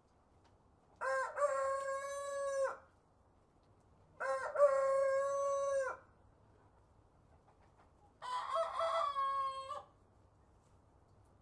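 A rooster crowing three times, each crow lasting about two seconds, with a few seconds of quiet between them.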